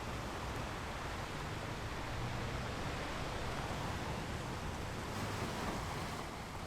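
Ocean waves washing on the shore as a steady rush of surf, swelling a little in the middle and easing off near the end.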